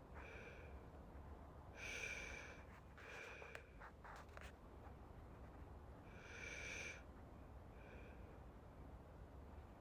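Soft, slow breathing close to the microphone, with the two longest breaths about two and six seconds in and fainter ones between. A few small clicks come around the fourth second.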